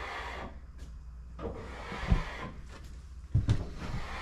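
Handling noises: rubbing and scraping, with a sharp knock about two seconds in and a cluster of knocks about three and a half seconds in.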